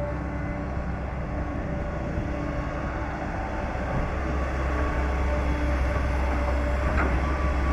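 Diesel engine of a Cat 318 hydraulic excavator running steadily under load, its low rumble growing louder about five seconds in, with a short knock near the end.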